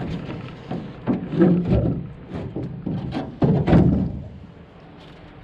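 Irregular knocks and clanks against an aluminum boat hull as a bench seat is worked loose and pulled out. The knocking stops about four seconds in.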